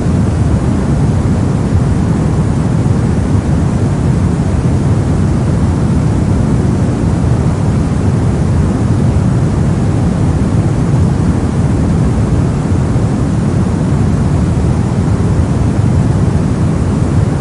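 Steady brown noise: a loud, unchanging random rumble weighted heavily toward the low end, like a deep hiss.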